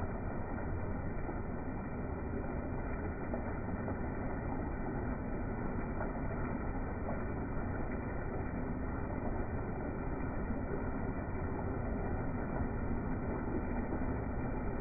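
Heavy rain falling steadily, a continuous even hiss, with water streaming off the edge of a sheet-metal roof onto a wet concrete rooftop.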